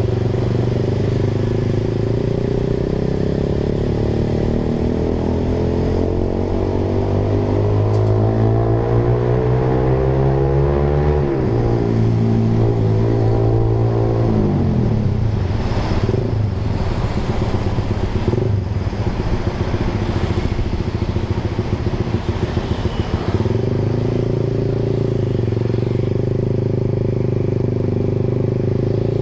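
Honda Sonic 150R's single-cylinder engine running through a Proliner TR1R Short aftermarket exhaust while riding. Its pitch climbs steadily for several seconds and drops abruptly about eleven seconds in, as at a gear change. It falls away again a few seconds later and runs unevenly with a series of short sharp cracks, then settles to a steady cruise near the end.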